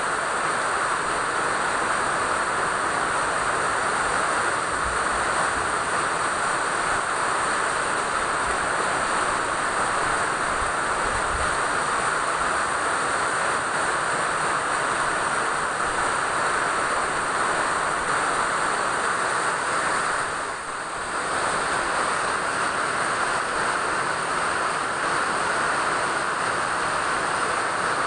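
Steady rain falling, an even hiss with no separate drops standing out; it dips briefly about two-thirds of the way through.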